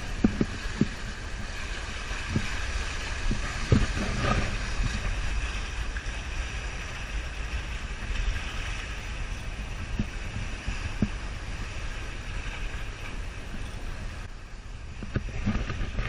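Wind buffeting the microphone and water rushing along the hulls of a sailing catamaran under sail with its engines off. A few light knocks come through now and then.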